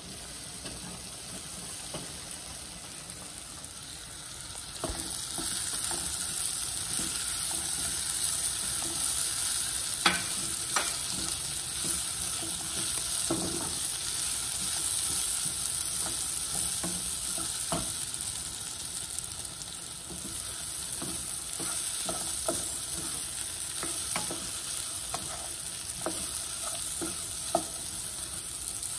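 Peeled fava beans, dill and garlic sizzling in hot olive oil in a pot while being stirred with a wooden spatula. The sizzle grows louder about five seconds in, with scattered knocks of the spatula against the pot.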